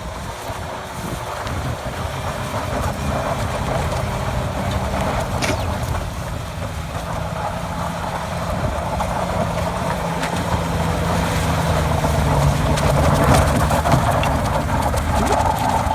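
Pickup truck engine running at a fairly steady pitch, growing gradually louder as it goes.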